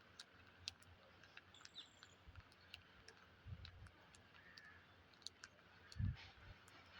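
Quiet, with faint scattered clicks and light taps throughout, a brief faint high bird chirp about two seconds in, and a dull low thump about six seconds in.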